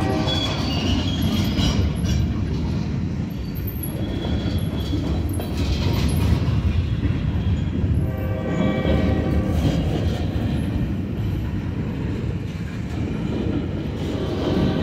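Florida Central Railroad freight train of open-top hopper cars rolling past: a steady rumble of wheels on rail, with higher ringing tones coming and going, clearest about eight to ten seconds in.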